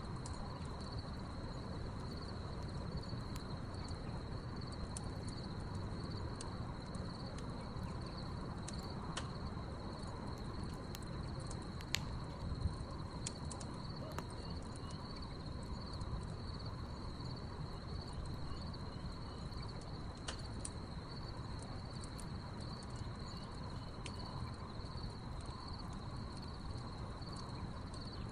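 Wood fire crackling with scattered sharp pops, the loudest two about twelve seconds in, over a low rush. Crickets chirp in a steady, high-pitched chorus throughout.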